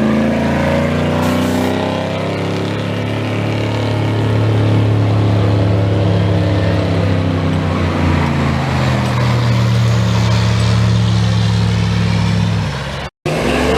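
Pickup truck engine running hard at steady high revs under heavy load during a truck pull, its pitch dipping slightly partway through.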